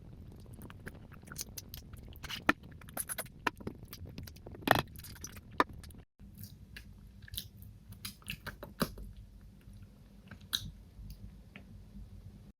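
Close-miked eating: chewing and wet mouth sounds with irregular sharp clicks, the loudest of them about two and a half and almost five seconds in. The sound drops out completely for a moment about six seconds in.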